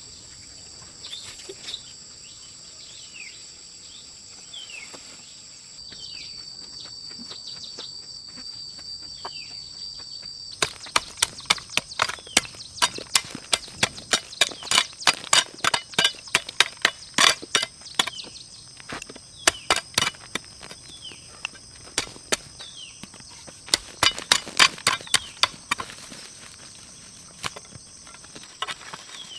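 Wood being chopped: a run of sharp, loud strikes, about two a second, starting about a third of the way in and stopping near the end. Under it, steady high insect buzzing throughout, with short falling chirps in the first part.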